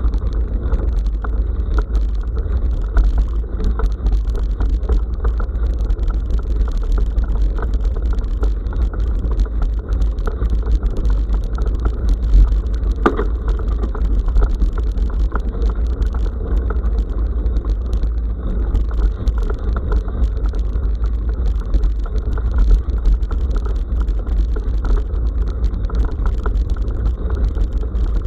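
Bicycle riding along a forest dirt road, heard through an action camera riding on the bike: a steady low rumble of wind and vibration with a dense crackling rattle of tyres over gravel. There is a single harder knock about halfway through.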